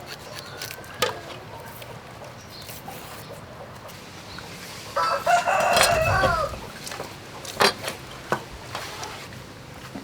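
A rooster crowing once, a call of about a second and a half starting about five seconds in. A few sharp clicks or knocks are heard around it.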